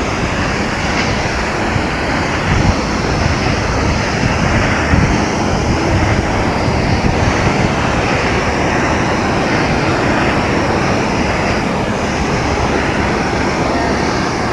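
Multnomah Falls waterfall: water falling and crashing into its pool in a loud, steady rush of noise.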